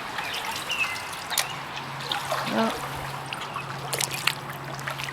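Water trickling and dripping off a kayak paddle, in many small irregular drips and splashes.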